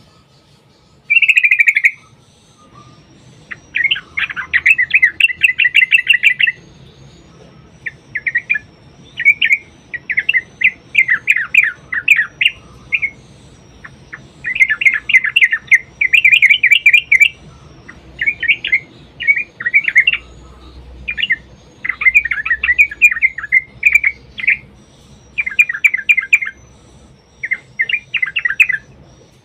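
Yellow-vented bulbul song: loud, bubbly, chattering phrases repeated one after another with short pauses. Some phrases run on for two to three seconds as long rolling runs.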